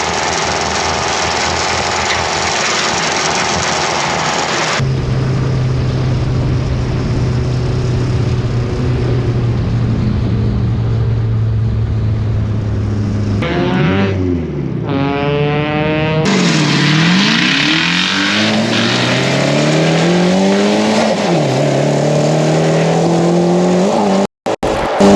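A drift car's engine revving up and down repeatedly as it slides, with tire squeal, in several cut-together passes.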